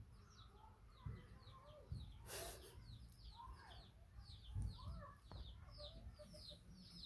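Faint bird calls: a steady string of short, high, falling peeps, about three a second, with a few lower calls and a soft rustle about two and a half seconds in.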